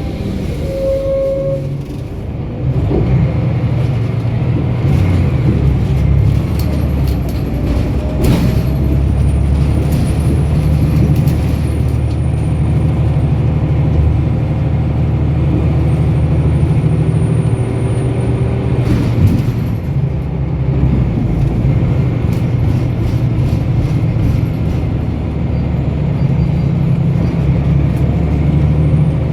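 2006 Scania L94UB bus's five-cylinder diesel engine running steadily under way, with a short tone about a second in and two brief hisses, about 8 and 19 seconds in.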